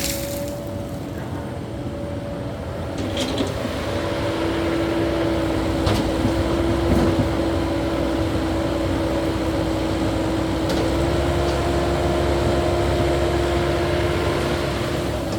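Caterpillar 308E2 mini excavator's diesel engine running steadily while it works. It rises slightly in pitch and loudness about three to four seconds in.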